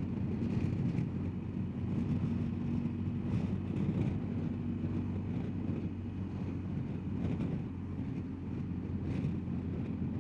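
BMW R1250GSA's boxer twin engine running at a steady cruise, with wind noise on the microphone.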